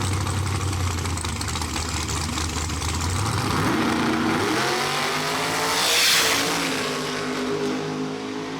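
Drag racing car's engine running low and steady, then revving up and climbing in pitch about three and a half seconds in as the car pulls away. It is loudest as it goes past about six seconds in, and the pitch drops a little afterward.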